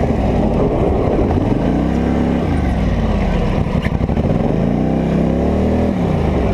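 Polaris Scrambler 850 ATV's twin-cylinder engine revving up and falling back twice in four-wheel drive, the throttle worked to find grip on slick ice.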